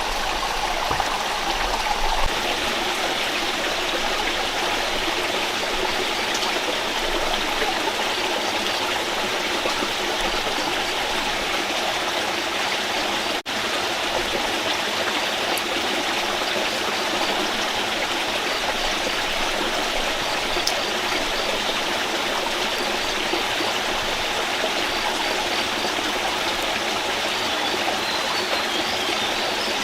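Rocky stream rushing steadily below, a constant even water noise. It drops out for an instant about halfway through.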